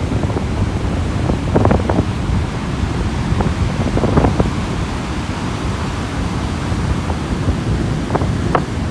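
Sea waves washing onto the beach in a steady rush with scattered small splashes, and wind buffeting the microphone.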